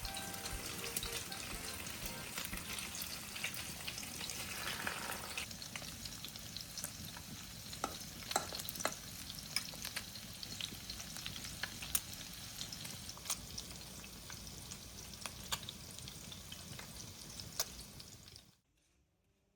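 Food sizzling as it fries in a pan, a steady crackle with frequent sharp spatters and pops. Near the end it cuts off suddenly.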